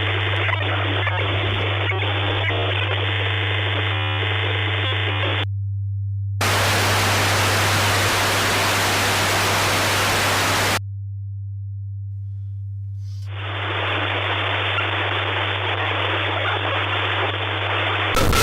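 Glitch-effect static: a loud, steady hiss over a constant low hum. About six seconds in it widens to full-range white noise for about four seconds, then drops to just the hum for a couple of seconds before the narrower hiss returns.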